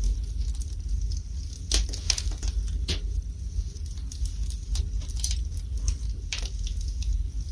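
Wood fire burning in a fireplace, crackling with irregular pops and snaps over a steady low rumble. The strongest snaps come about two and three seconds in.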